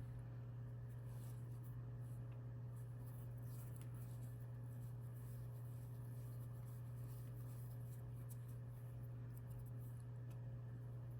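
Faint, irregular rubbing and light scratching of a crochet hook pulling yarn through stitches, over a steady low electrical hum.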